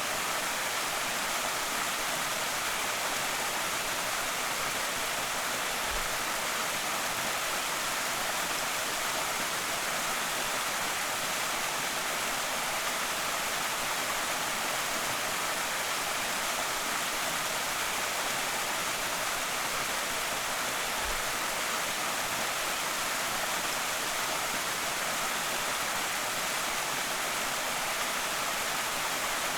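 Waterfall on a small creek: a steady, even rush of falling water.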